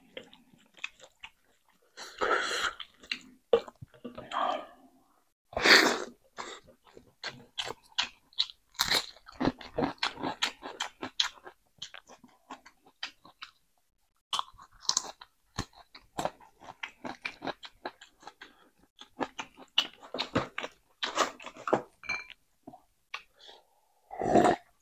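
Chewing and crunching while eating mullet fish: a dense run of short wet clicks and smacks, with a couple of brief pauses.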